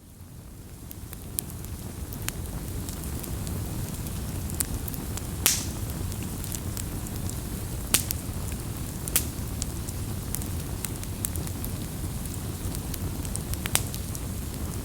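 Campfire burning with a steady low rumble and scattered sharp crackling pops, a few of them louder, about 5, 8, 9 and 14 seconds in. The sound fades in over the first couple of seconds.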